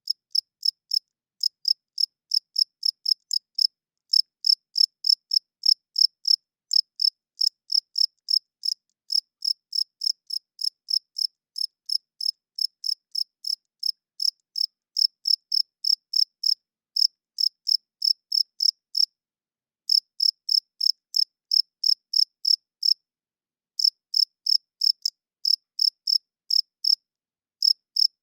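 Male crickets chirping: a steady run of short, high-pitched chirps at about three a second, made by rubbing the wings together, with brief pauses of about a second three times in the second half.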